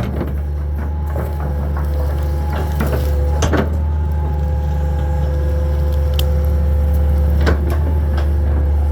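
A Hitachi 225 22.5-ton excavator running steadily under load, a deep engine drone with a steady whine above it. A few sharp knocks and cracks from debris and wood being handled stand out, the loudest about three and a half seconds in and again at about seven and a half seconds.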